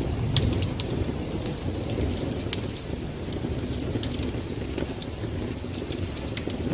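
Wood fire burning in a fireplace, crackling with many sharp irregular pops over a steady low rumble of the flames.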